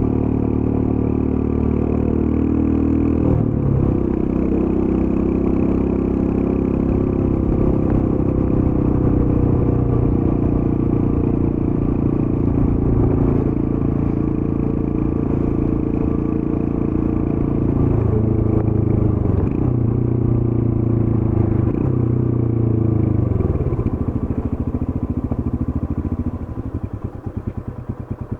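Royal Enfield Scram 411's single-cylinder 411 cc engine through its stock exhaust, running under way with its note dropping several times as the bike slows through the gears. Near the end it settles to a slower, quieter beat of separate exhaust pulses as it comes off the throttle.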